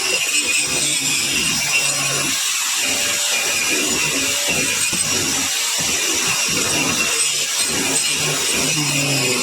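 Angle grinder cutting into a stone concretion, running continuously under load, with the grinding sound shifting as the disc works the rock.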